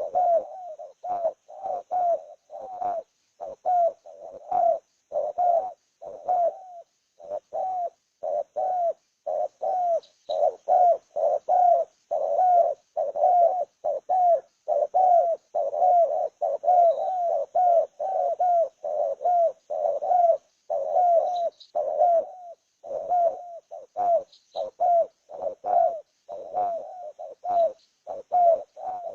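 A bird calling with a low, cooing note repeated rapidly and evenly, about three times a second, almost without pause. A few faint high chirps from another bird come through now and then.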